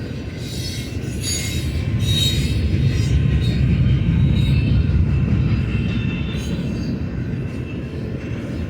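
Freight train rolling past at trackside, a heavy rumble of wheels on rail that swells louder a couple of seconds in and eases again, with thin high-pitched wheel squeal above it.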